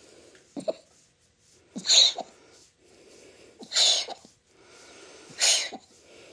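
Small dog coughing in a fit: three strong, sharp hacking coughs about every second and a half, each after a wheezy breath in, with a smaller one at the start. He coughs like this on waking from a nap, and the owner suspects kennel cough.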